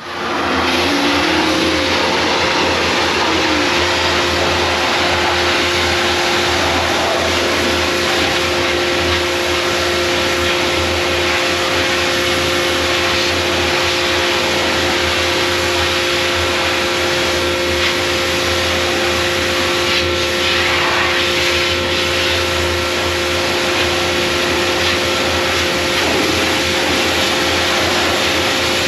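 Pressure washer running steadily, a constant machine whine under a continuous hiss of spray.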